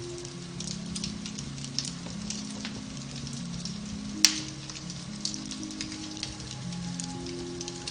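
Beech-wood fire in a fireplace crackling with many small pops and one loud, sharp pop about four seconds in. Under it, soft background music in slow, held low notes.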